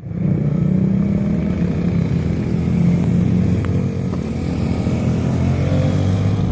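Suzuki DR-Z110 dirt bike engines, small single-cylinder four-strokes, running steadily at low revs with a slightly wavering pitch.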